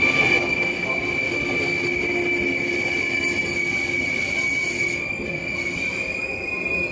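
A train's wheels squealing on the rails: one steady high-pitched squeal that starts suddenly and holds, over the rumble of the train.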